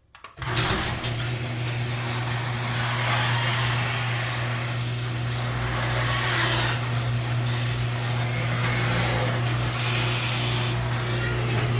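Old chain-drive garage door opener running a door cycle, starting about half a second in: a steady electric motor hum under the noise of the chain drive and worn metal rollers moving in the tracks.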